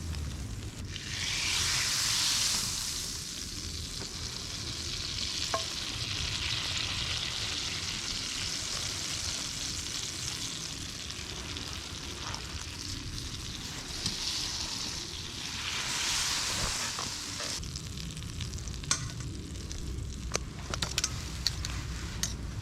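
Steady sizzling hiss that swells twice, with a few sharp pops near the end.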